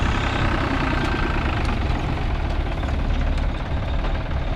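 Heavy farm vehicle engine running steadily, its sound concentrated low down.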